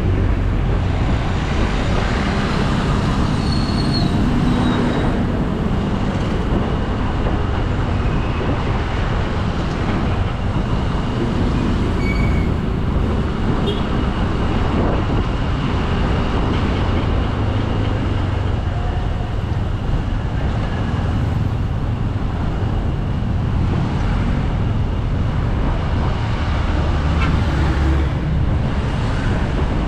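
Motorcycle underway on the road: steady engine running under constant wind and road noise.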